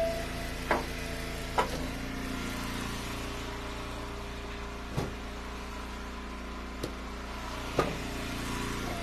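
Engine of a hydraulic log splitter running steadily, with five sharp knocks of firewood being handled spread through.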